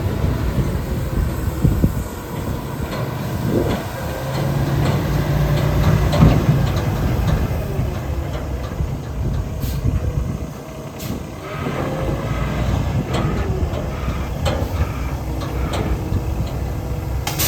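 A 2017 Peterbilt 567 tri-axle dump truck's diesel engine running with a heavy, steady rumble, with rattling and a few sharp clicks and clanks over it.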